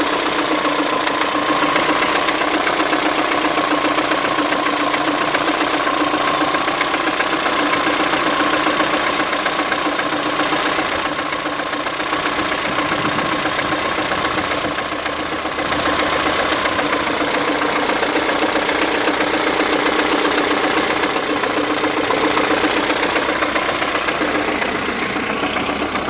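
Engine running steadily at idle, an engine treated with Nioil tribotechnical friction-reducing compound.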